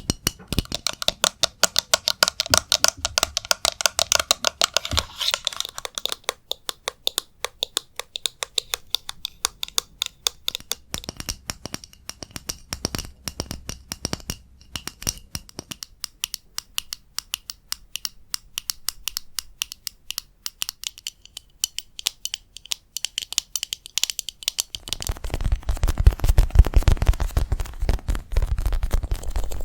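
ASMR tapping: rapid, dense taps on hard objects. In the first few seconds the taps ring with a clear tone, then turn drier. Near the end they give way to a louder, low, continuous rustling noise close to the microphone.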